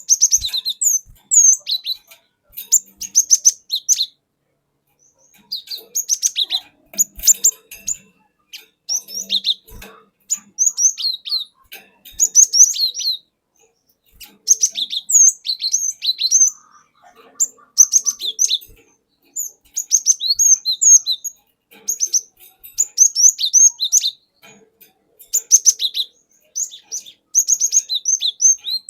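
Cinereous tit (glatik batu) singing: phrases of quick, high whistled notes, each phrase a second or two long, repeated with short pauses between.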